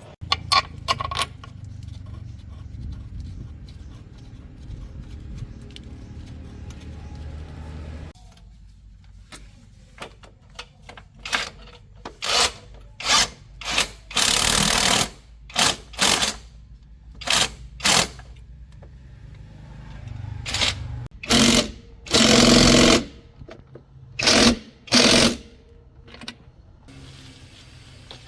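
Power tool, likely an impact wrench, run in a dozen short bursts of rapid rattling, after a low steady hum at the start.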